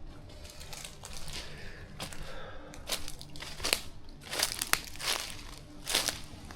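Crunching and crinkling of footsteps pushing through dry, overgrown vegetation, in an irregular run of steps.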